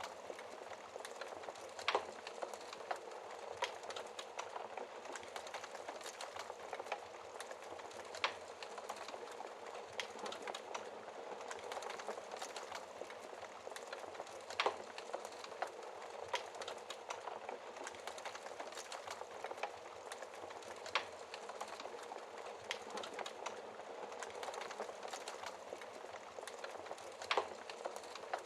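Wood fire in a fireplace crackling steadily over a soft hiss, with small ticks throughout and a sharper pop every few seconds.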